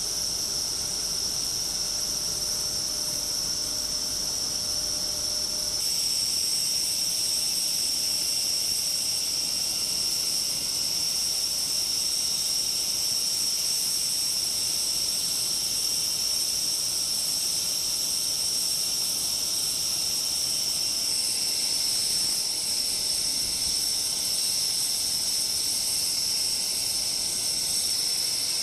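Steady, high-pitched chirring of insects that does not let up, changing abruptly about six seconds in.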